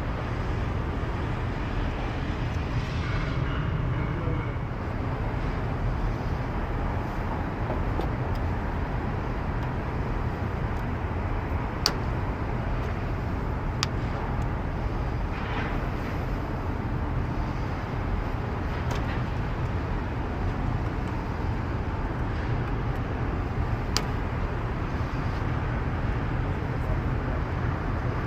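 Steady low rumble of outdoor city noise, with a few sharp clicks scattered through it.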